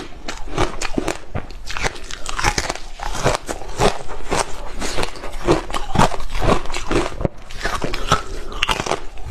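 Hard frozen ice being bitten and chewed close to the microphone, with dense, irregular crunches throughout.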